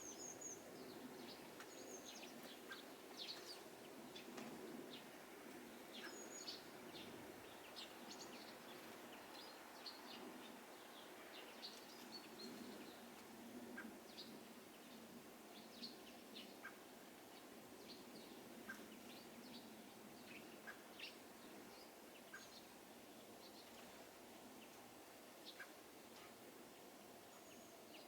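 Faint chirps and short calls of small garden birds, many brief high notes a few a second, some of them quick downward slurs, over a steady low background noise.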